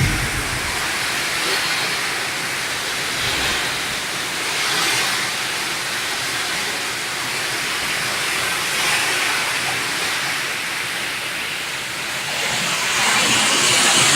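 Heavy rain driven by strong wind: a steady hiss that swells in gusts every few seconds, loudest near the end.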